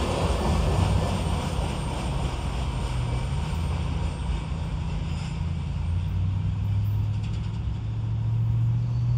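CSX freight train of open hopper cars rolling by: a steady low rumble with a deep engine drone that grows a little stronger in the second half.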